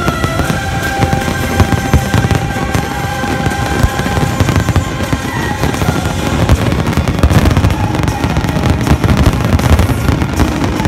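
Aerial fireworks shells bursting in a dense, continuous barrage of booms and crackle, with music playing along and a few long held notes in the first half.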